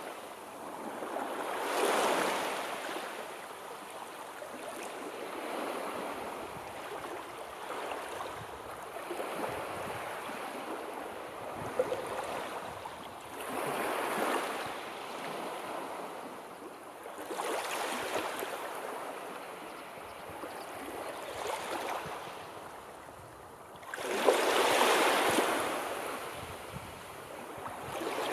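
Sea waves washing in and breaking, the surf swelling and fading every few seconds, with a larger wave near the end.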